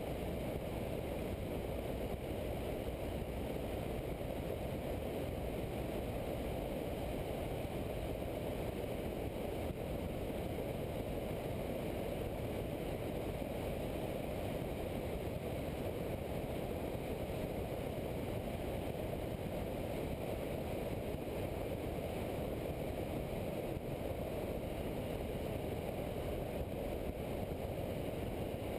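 Steady rush of airflow and engine noise from a Cessna 172 in flight, picked up by a camera on the wheel strut. The sound is dull and even, with no clear engine note standing out and no thumps or changes.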